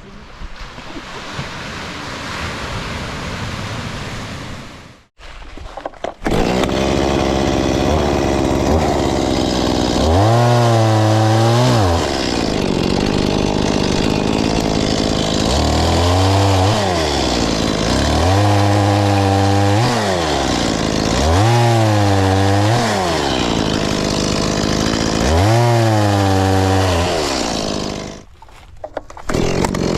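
Petrol chainsaw cutting firewood, its two-stroke engine revving up and down again and again under the throttle. It comes in about six seconds in and drops away briefly near the end before running again.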